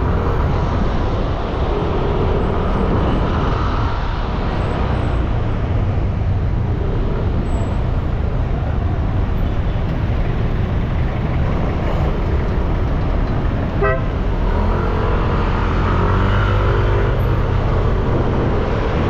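Dense city traffic with a steady low rumble of engines and road noise, and vehicle horns tooting, one short toot about fourteen seconds in.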